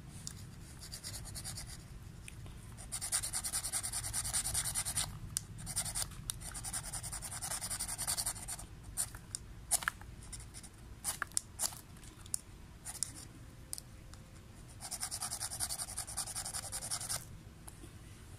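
Scratching in three bursts of about two seconds each, with scattered sharp clicks between them.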